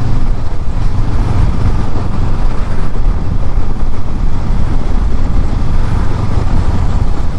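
Honda CB500X motorcycle's parallel-twin engine running under way, with road noise, making a steady low rumble.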